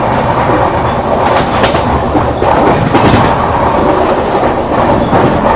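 Indian Railways passenger train running at speed: loud, steady rushing rail and wind noise, with a few sharper clacks from the wheels passing over rail joints.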